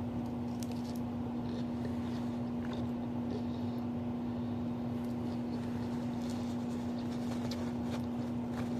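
Faint crunches and clicks of someone chewing salad, over a steady low hum.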